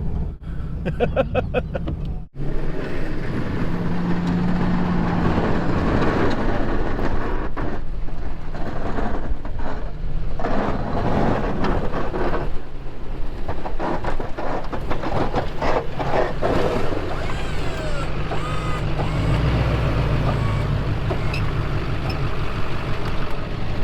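Snow plow truck's engine running steadily under a dense, even rushing noise.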